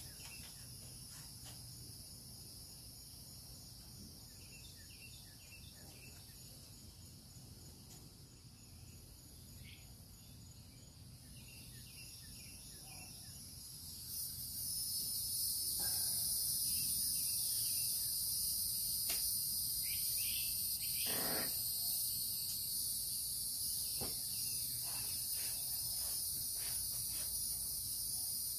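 Steady, high-pitched chorus of insects, which grows much louder about halfway through, with scattered short bird chirps over it.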